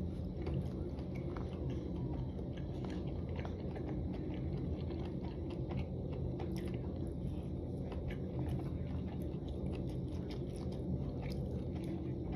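Close-up mouth sounds of a person biting and chewing spicy dry hot pot, with many small wet clicks and smacks, over a steady low hum.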